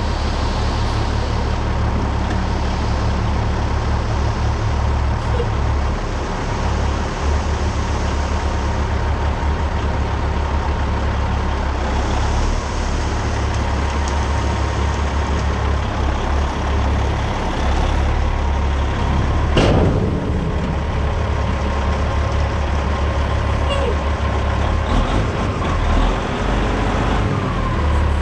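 Loaded dump truck driving, its diesel engine rumbling steadily under road noise, with a thin steady whine throughout. One brief sharp clank or squeak cuts through about 20 seconds in.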